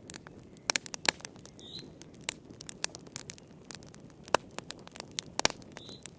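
Wood fire in a fireplace crackling, with sharp, irregular pops and snaps over a low steady hiss. The loudest snaps come about a second in and again at four and five and a half seconds. Two short, high chirping notes sound about two seconds in and near the end.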